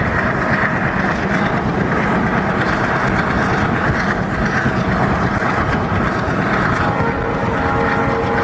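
Passenger train running at speed, heard from an open coach window: a steady loud rush of wheels on rails and wind, with the ALCO WDM3D diesel locomotive's engine running ahead. A faint steady hum comes in about seven seconds in.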